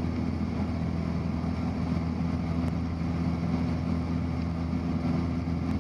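Cessna 172's piston engine and propeller droning steadily, heard inside the cabin during the climb.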